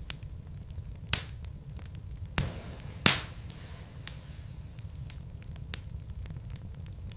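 Wood logs burning in a fireplace: a steady low rumble of flame with crackling. Three sharp pops come at about one, two and a half, and three seconds in, the last the loudest, among fainter ticks.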